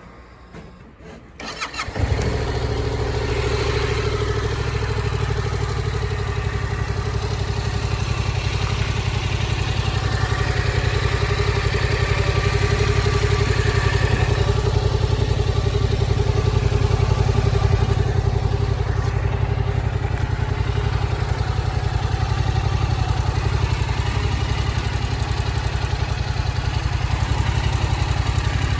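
Yamaha MT-07's 689 cc parallel-twin engine turned over by the starter for a moment, about a second and a half in, catching at once and then idling steadily. The engine is in good running order, as the seller describes it.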